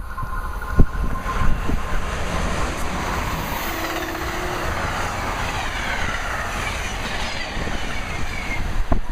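Amtrak train hauled by two AEM-7 electric locomotives passing at speed: a steady rush of wheels on rail, with faint falling whines in the second half. Wind gusts thump on the microphone about a second in and near the end.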